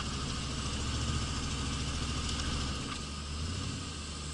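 1983 Pontiac Trans Am's 305 small-block V8 running steadily while driving, with its low engine note dropping a little about three seconds in.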